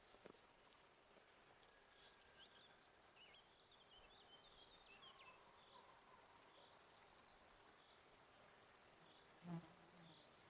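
Near silence: faint rural outdoor ambience, with a steady high-pitched insect-like hum and light chirping in the middle, and one soft low thump near the end.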